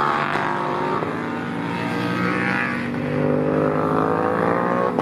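Several racing motorcycles running hard on the circuit, their overlapping engine notes rising and falling as they go by.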